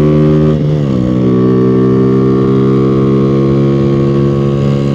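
Honda Revo 110's single-cylinder four-stroke engine running under way; its note drops about a second in, then holds steady.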